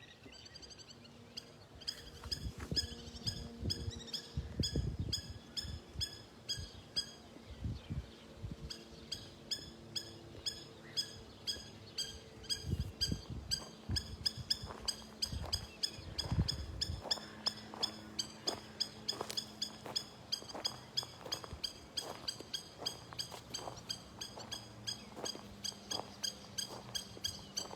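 A bird calling outdoors, one short high note repeated over and over at about two a second, with low rumbling thumps underneath during the first half.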